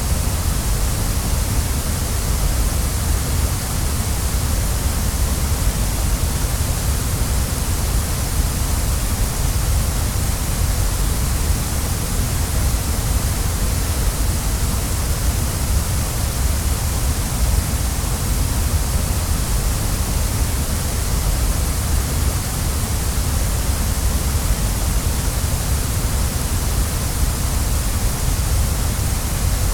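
Waterfall rushing steadily: a constant, even roar of falling water with a deep rumble and a bright hiss, unchanging throughout.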